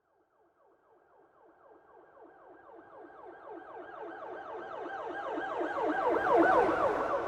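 Emergency vehicle siren on a fast yelp, its pitch sweeping up and down about three or four times a second. It rises from nothing, grows steadily louder as if approaching, peaks about six and a half seconds in and starts to fade just after.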